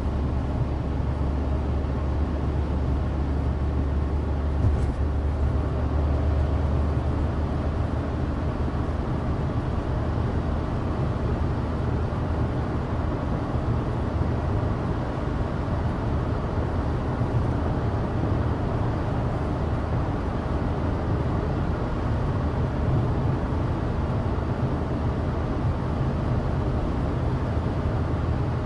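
Inside the cabin of a 2016 Suzuki Alto Turbo RS on the move: its small three-cylinder turbo engine drones steadily under even road noise from studless winter tyres on a dry road. A single small tick about five seconds in.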